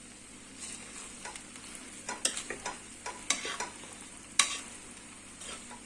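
A utensil scraping and knocking against a pot of plov as it is worked, in irregular clicks, with faint sizzling underneath. One sharper knock comes about four and a half seconds in.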